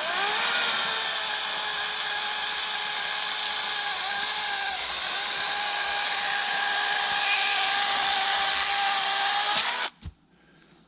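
Harbor Freight LYNXX 40V cordless chainsaw's electric motor spinning up with a rising whine. It then runs steadily for about ten seconds while cutting wood, and stops suddenly near the end.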